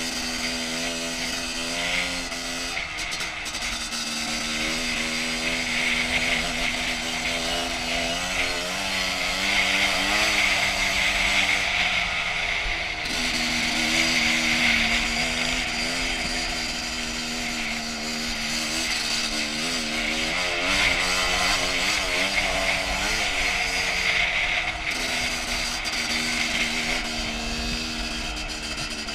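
2001 Honda CR250's single-cylinder two-stroke engine running under way on a dirt trail, its note holding steady for stretches and wavering up and down at others as the throttle changes.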